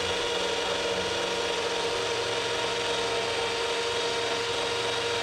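Handheld electric power tool running steadily with a constant hum while abrading soft, gummy body filler off a truck fender.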